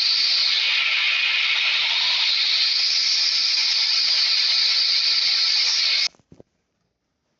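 A steady, loud hiss that cuts off abruptly about six seconds in, leaving near silence with a couple of faint clicks.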